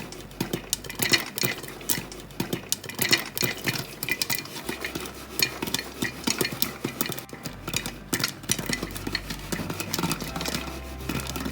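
Stirring in a stainless steel electric frying pan while making popcorn: quick, irregular clicks and scrapes of a utensil and kernels against the pan.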